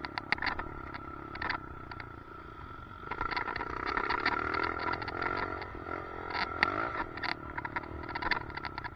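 Dirt bike engine running with its pitch rising and falling as the throttle is worked, overlaid by rapid rattling clicks from a loose helmet chin mount.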